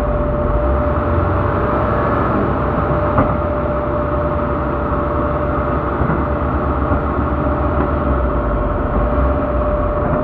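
Heavy diesel machinery running steadily: a constant low engine rumble with a steady whine over it, and a single sharp knock about three seconds in.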